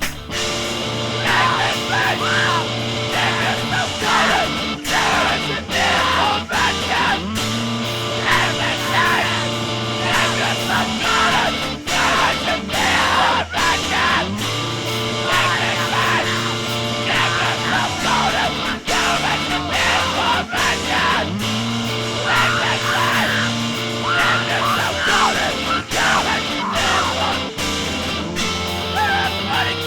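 Loud rock band recording: distorted electric guitars, bass and drums, with shouted vocals over the top.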